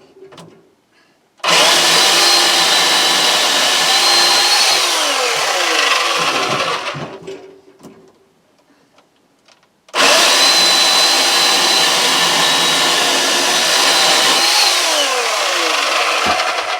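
Electric chainsaw cutting small firewood in two bursts of about five and seven seconds. Each burst starts abruptly with a high motor whine, and the pitch falls away as the motor spins down when the trigger is released.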